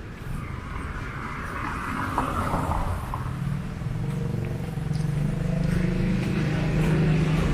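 Road traffic: a motor vehicle's engine running with a steady low hum that grows louder over the last few seconds as it comes closer.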